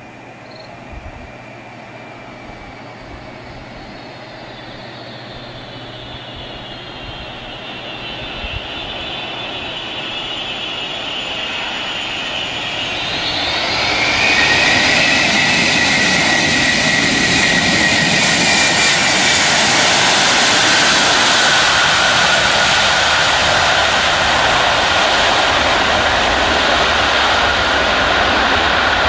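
Jet airliner engines: a whine that slowly falls in pitch while growing louder, then rises in pitch about halfway through and swells into a loud, steady roar.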